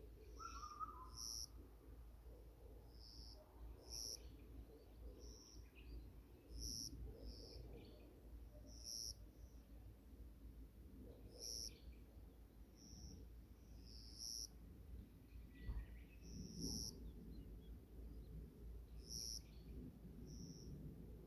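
Birds calling in a forest: a faint, short, high note repeats about every second or two, with a few other soft calls between, over a low steady background hum.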